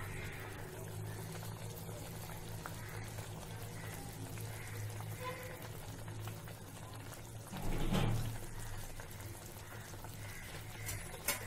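Aloe vera gel bubbling and sizzling in hot ghee in a pan as its water cooks off; the gel has not yet melted down. A steady low hum runs under it, with a brief louder burst about eight seconds in.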